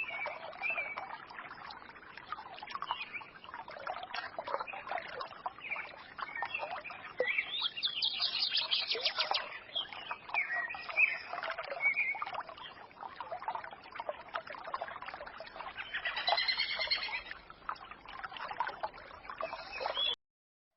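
A small forest stream trickling and burbling, with birds twittering and singing over it: a rapid run of high notes about eight seconds in and a louder song near the end. The sound cuts off abruptly just before the end.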